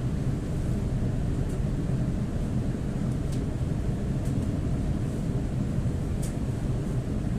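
EP2D electric train running at speed, heard from inside the car: a steady low rumble of wheels on rail and running gear, with a few faint, brief high squeaks.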